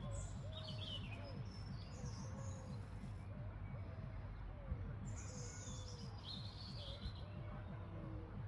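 Songbirds singing in short, high chirping phrases, once near the start and again past the middle, over a steady low rumble of outdoor background noise.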